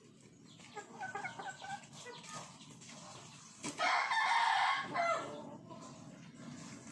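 Chickens clucking in short calls, then a rooster crows once, loudly, for a little over a second, starting just past the middle.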